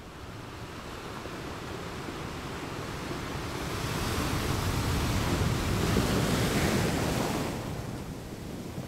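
Sea waves and wind on the microphone: an even rush of noise that builds from about four seconds in and eases off near the end.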